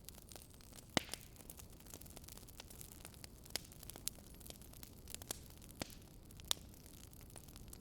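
Campfire with burning wood crackling: sharp, irregular pops over a low steady hiss.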